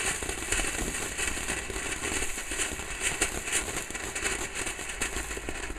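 Ground firework fountain burning: a steady spray-like hiss with fine crackling throughout.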